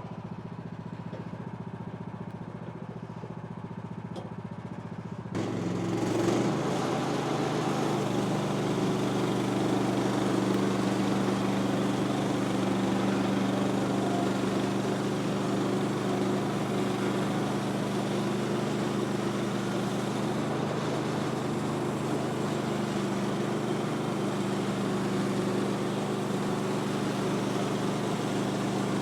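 Woodland Mills HM126 portable bandsaw mill's gas engine running at idle. About five seconds in it speeds up, and it then runs steadily under load as the band blade saws through a log.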